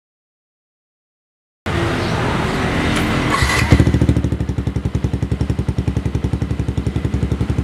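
Yamaha FZ150i's 150 cc single-cylinder four-stroke engine through an aftermarket Yoshimura exhaust, cutting in abruptly after about a second and a half of silence. It runs rougher for about two seconds, then settles into a steady idle with even exhaust pulses, about a dozen a second.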